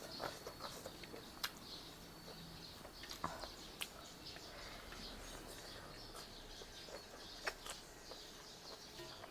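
Faint chorus of birds chirping in the background, broken by a few sharp clicks, the loudest about a second and a half in, near four seconds and about seven and a half seconds in.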